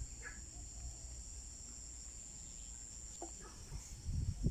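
Steady high-pitched chirring of crickets or similar insects, with a few faint short chirps over it. Near the end a louder low rumbling comes in.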